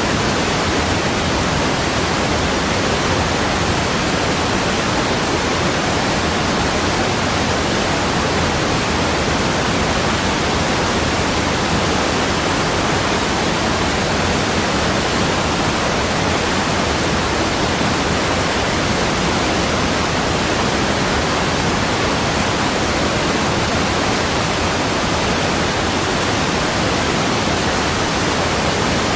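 Steady, unchanging rushing noise of falling water, like a waterfall, with no splashes or other events standing out.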